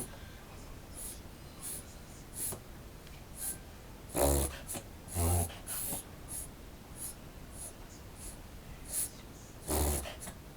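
Toy poodle reverse sneezing: short, forced, wheezy breaths repeating a little faster than once a second, with three louder, pitched ones about four and five seconds in and near the end. The owner likens these episodes to asthma.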